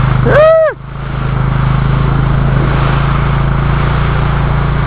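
A motor runs with a steady low drone throughout. About half a second in, a short pitched vocal call cuts in over it.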